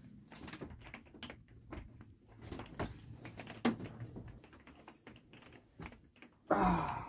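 Irregular light clicks and taps of a fork against a dish while eating, a few a second, with one louder, brief sound that drops in pitch near the end.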